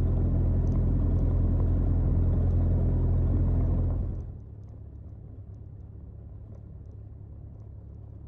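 Mooney M20J's four-cylinder Lycoming engine and propeller running at taxi power, heard from the cockpit as a steady low hum. About four seconds in it drops sharply in level and loses its higher sounds, then carries on as a quieter steady hum.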